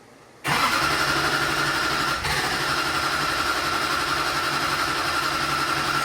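LML Duramax 6.6 L V8 diesel being cranked over by its starter after a full fuel system replacement, while fuel rail pressure is expected to build. The steady cranking starts suddenly about half a second in and cuts off suddenly near the end.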